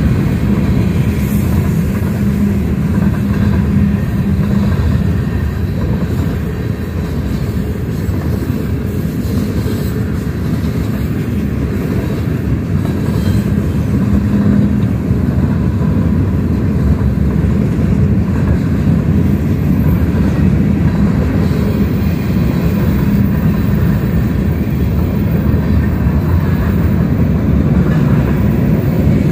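Mixed freight train's cars (covered hoppers, flatcars, gondolas) passing at speed, their steel wheels running on the rails in a loud, steady rush.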